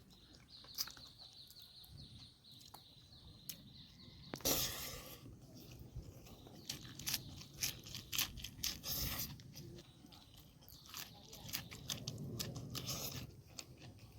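A person chewing and crunching food close to the microphone, with wet mouth clicks and smacks and a louder crunching bite about four and a half seconds in.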